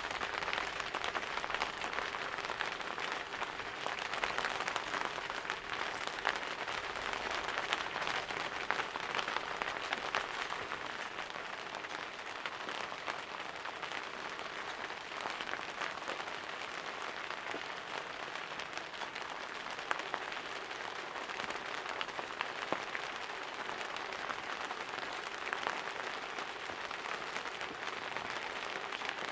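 Steady rain falling, a dense patter of drops with scattered sharper drips.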